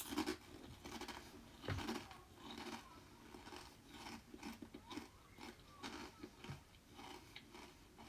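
A digging tool cutting into wet, muddy soil: irregular crunching scrapes and chops, with two louder strikes, one at the start and one just before two seconds in.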